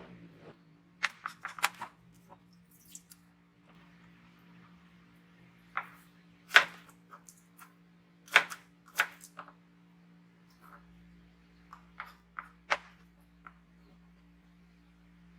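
Kitchen food-prep sounds: scattered sharp clicks and knocks of utensils and food being handled, a few louder knocks about six and eight seconds in, over a steady low hum.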